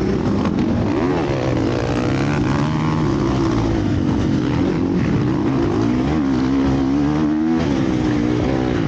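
Several motocross motorcycle engines racing at once, their pitch rising and falling as riders rev and shift.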